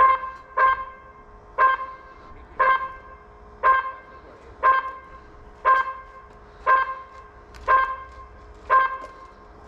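Race timing system counting down to the start over a loudspeaker: ten short electronic beeps, each with the same pitch, about one a second.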